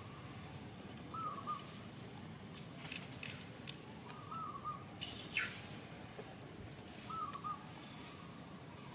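A bird calling over and over, a short warbled note about every three seconds. A brief, loud rustle comes about five seconds in.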